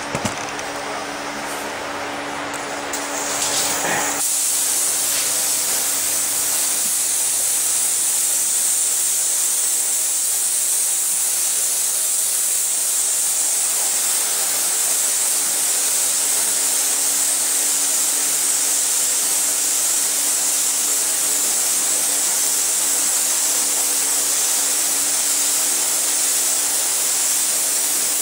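Compressed-air paint spray gun spraying: a steady, loud hiss that comes in about four seconds in and holds evenly, over a constant low hum.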